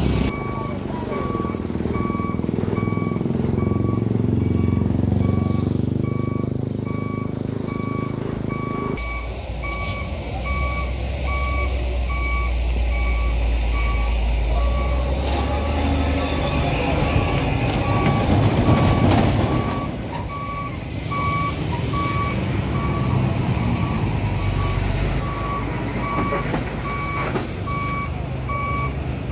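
A truck's reversing alarm beeping steadily, over a heavy diesel truck engine running. The engine note drops and changes about nine seconds in and swells louder a little past halfway.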